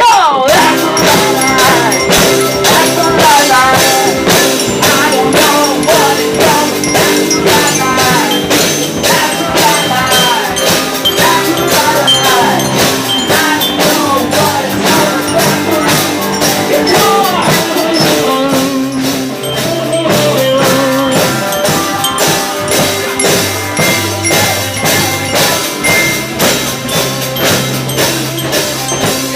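A live rock band playing a song, with a steady drum-kit beat under pitched instruments.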